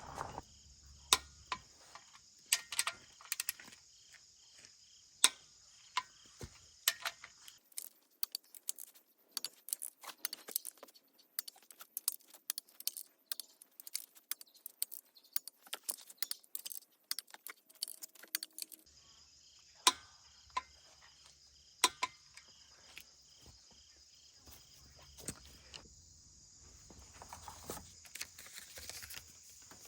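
Irregular sharp metallic clicks and clinks of hand tools and engine parts being handled, coming thick and fast through the middle stretch, over a faint steady high-pitched hiss.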